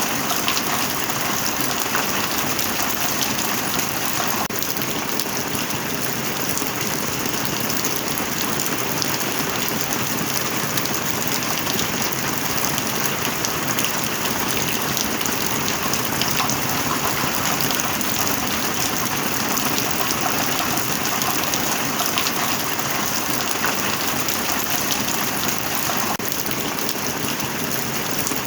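Steady heavy rain: a dense, even hiss with individual drops ticking through it.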